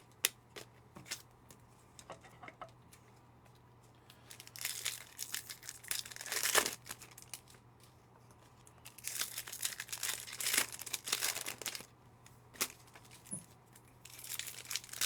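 2025 Panini Optic football trading-card packs being torn open, their wrappers crinkling in three bursts, with scattered light clicks and taps between.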